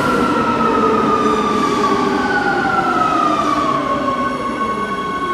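Rome metro train's electric traction motors whining as it slows at the platform: several tones fall slowly in pitch together and level off near the end.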